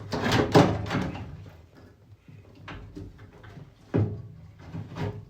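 Clunks and knocks of a washing machine motor being worked loose from its metal mounts, with a few sharp knocks in the second half.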